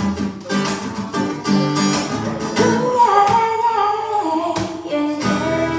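Acoustic guitar played live with plucked and strummed chords, joined about halfway through by a short wordless sung phrase.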